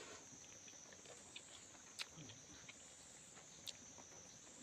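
Quiet chewing of a mouthful of food, with faint mouth ticks and two sharp clicks, one about two seconds in and one a little before the end. Behind it runs a steady high insect chirring that swells and fades slowly.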